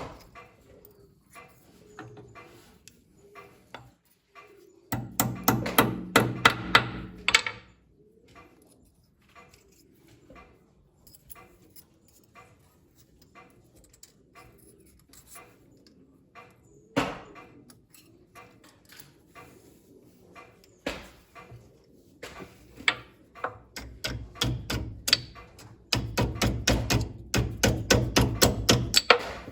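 Hand tools at work in a workshop: scattered clicks and knocks, with two runs of rapid, rhythmic striking or clicking, one a few seconds in and a longer, louder one near the end.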